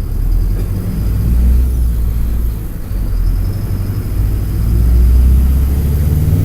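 Mercedes-Benz OF-1722M bus's OM-924 LA four-cylinder turbodiesel engine running under way, a deep low rumble that swells, eases off near the middle, then swells again.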